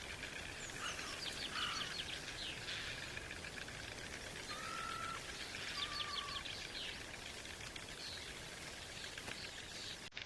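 Small birds chirping and singing over a steady high buzz, with two short whistled notes about halfway through.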